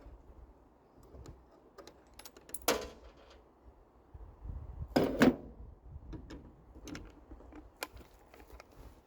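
Small metal hardware being rummaged through and handled: scattered clicks and clinks, with a louder clatter near three seconds in and two more around five seconds in.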